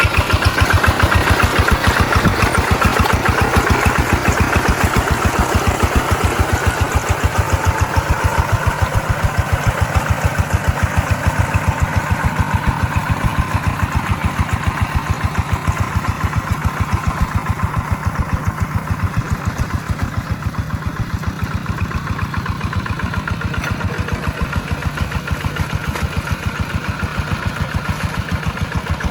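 Tractor engine running steadily in a muddy rice paddy, with a fast, even chugging beat. It is a little louder and brighter for the first several seconds, then settles slightly quieter.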